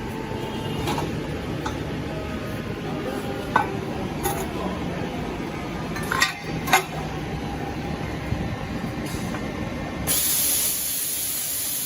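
Workshop machinery running with a steady low rumble, broken by several sharp metallic clinks, then a loud hiss starts abruptly near the end.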